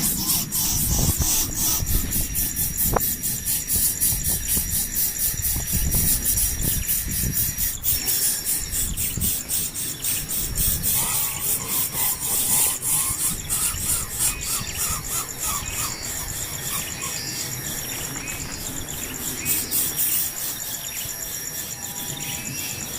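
Uneven rubbing and rustling noise, louder in the first half, under a fast, high-pitched insect trill that runs on throughout; a short run of quick chirps comes about halfway.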